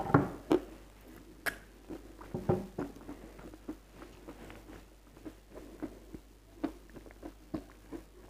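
Close-miked chewing of something crunchy: irregular crisp crunches and clicks, several sharp ones in the first three seconds, then softer and sparser.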